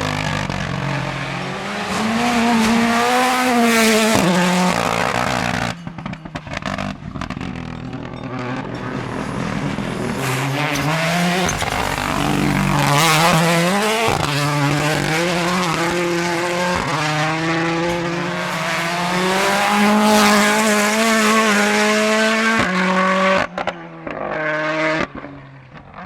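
Ford Puma Rally1's turbocharged 1.6-litre four-cylinder engine revving hard, its pitch climbing and dropping through repeated gear changes. About six seconds in it comes off the throttle with a run of sharp cracks, and near the end it fades as the car drives away.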